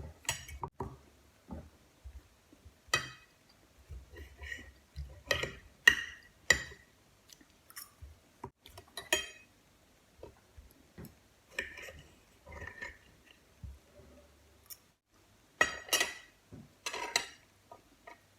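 Close-miked eating of tomato and mozzarella: cutlery clicking against a dish and short bursts of chewing, in irregular separate sounds with the loudest clusters about six seconds in and near the end.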